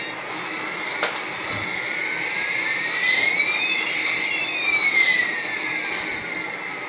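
A battery toy's electronic sound effect: whining tones that glide up and down in pitch, one rising as another falls, with a sharp click about a second in and another near the end.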